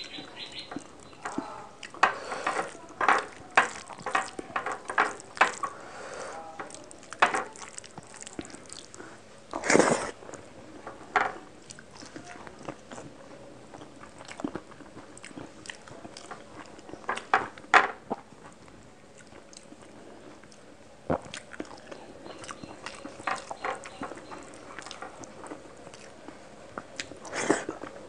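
Close-miked eating sounds of rice and fish curry eaten by hand: wet chewing with sharp smacking clicks that come in clusters. There are many in the first few seconds, a loud burst about a third of the way in, another pair past halfway and one near the end.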